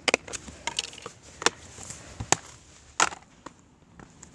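A plastic DVD case being smashed: a string of sharp, irregularly spaced knocks and cracks.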